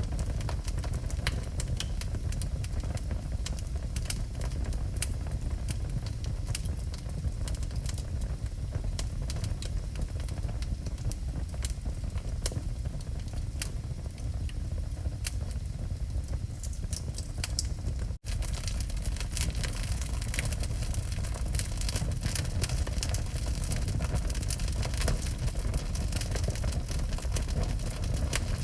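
Wood fire burning in a fireplace: steady crackling with many small sharp pops over a low rumble. The sound drops out for an instant about two-thirds of the way through, and the crackling is brighter afterwards.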